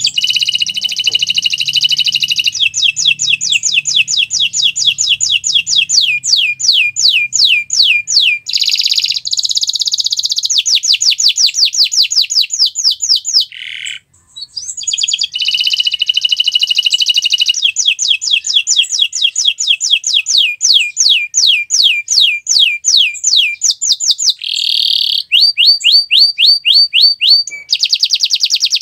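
Canary singing a long, loud song of fast repeated sweeping notes, about four a second, alternating with buzzy rolls. It comes in two long phrases with a short break about halfway.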